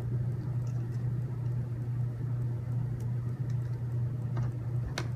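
A steady low hum, with a few light clicks of small screws and parts being handled, one about three seconds in and a sharper one near the end.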